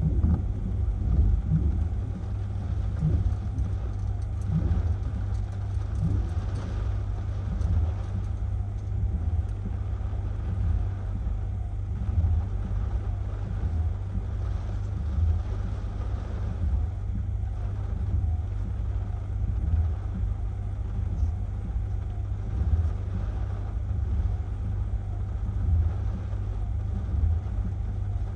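Hurricane-force wind buffeting the microphone: a heavy, steady rumble that swells with gusts now and then, with a faint rushing hiss above it.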